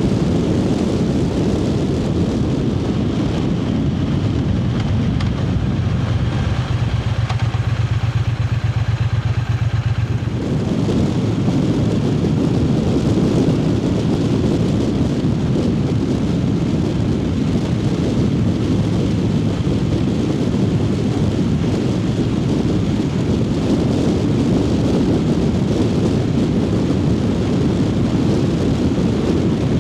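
Triumph Speed Twin 900's parallel-twin engine running under way, with wind rushing over the microphone. From about five seconds in, the wind noise drops and a steady low engine note stands out, then the wind rush returns about ten seconds in.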